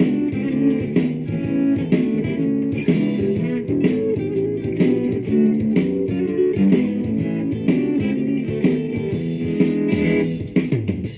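Lava ME 4 guitar playing a classic blues loop through effects pedals, a steady, repeating blues rhythm of plucked notes.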